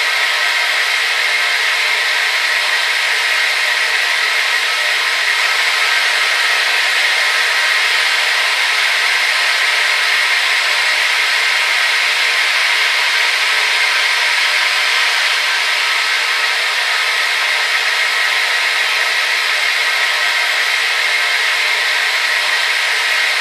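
Hair dryer running continuously at a steady speed: an even airy whoosh with a motor whine, unchanging throughout.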